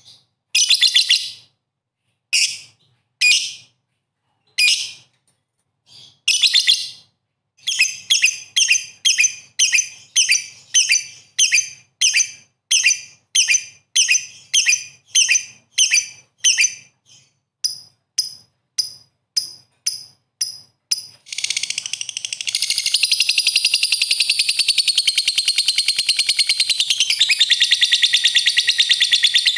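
Songbird calls: a string of sharp, high chirps repeated about one and a half times a second. About two-thirds of the way through, they turn into a continuous fast chattering trill.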